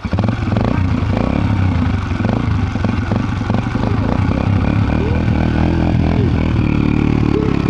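Dirt bike engine running under throttle, loud and steady.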